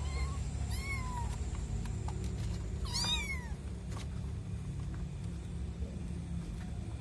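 A kitten meowing: three short, high-pitched mews that rise and fall in pitch, the loudest about three seconds in. A steady low hum runs underneath.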